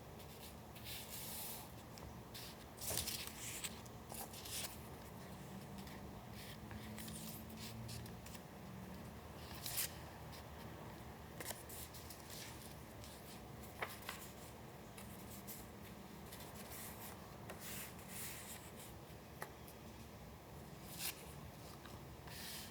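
Paper being handled at a worktable: soft, intermittent rustles and swishes every second or two, with a few light taps, over a low steady room hiss.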